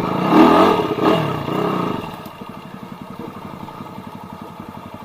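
Trail dirt bike engine revving hard with the pitch rising and falling, then dropping to a quieter, fast, even putter about two seconds in.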